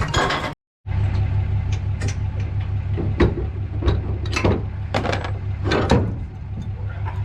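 A vehicle engine running steadily, with several sharp clanks or knocks over it in the middle stretch.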